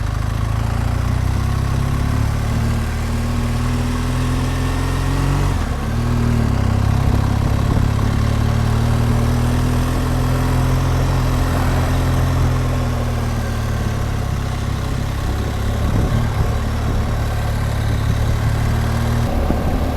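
BMW R1200GSA's boxer-twin engine running steadily under way. The note breaks briefly about five and a half seconds in, then rises and falls gently in pitch.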